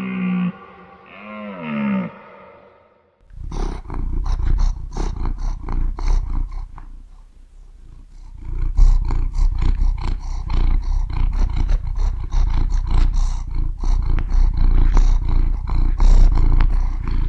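A large wild animal roaring and growling in a long run of rough, repeated calls, starting about three seconds in. Before it, a drawn-out pitched animal call ends right at the start, and a short call with a sliding pitch follows about a second later.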